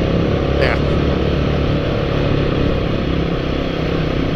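Royal Enfield motorcycle engine running steadily as it is ridden, a low rumble mixed with road and wind noise.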